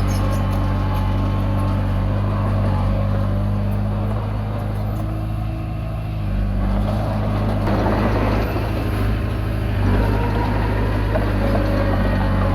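Komatsu D20P bulldozer's diesel engine running steadily while pushing soil. Its note eases briefly about four seconds in, then comes back with a rougher, noisier stretch a few seconds later.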